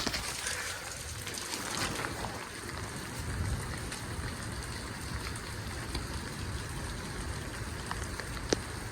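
Steady rain falling: an even hiss with a few sharper taps of drops.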